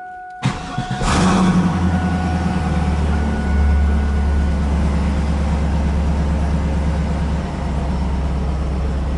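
Car engine cranking briefly and catching about a second in, then settling into a loud, deep idle rumble. This is the first start after the car has sat unused for about a year.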